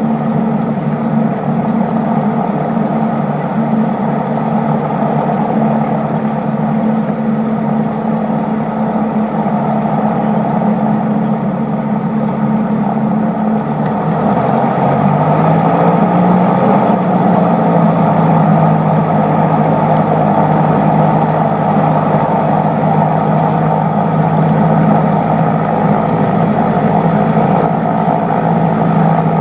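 Cessna 152's four-cylinder Lycoming O-235 engine and propeller running with a steady drone. About halfway through, the pitch dips and settles lower while the sound grows slightly louder: a change in engine power.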